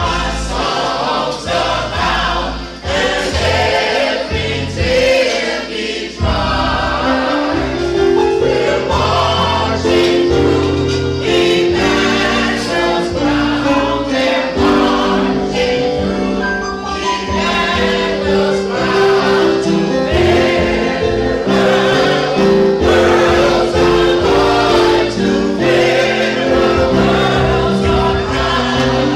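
Gospel choir singing with instrumental accompaniment and a steady beat; the low backing notes fill in about six seconds in.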